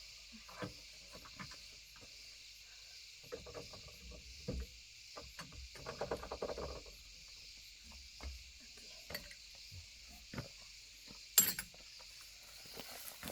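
Steady high chirring of insects, with scattered clicks and knocks over it, a small cluster of them about halfway, and one sharp louder click near the end.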